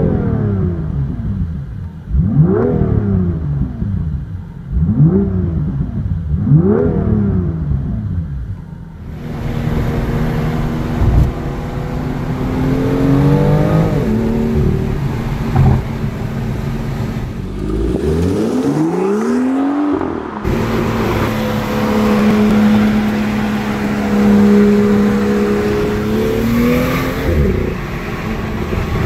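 BMW M2's turbocharged 3.0-litre straight-six, first blipped in four quick revs about two seconds apart, each rising and falling straight back. It then runs under way at steadier revs, with pitch changes and a rising pull partway through.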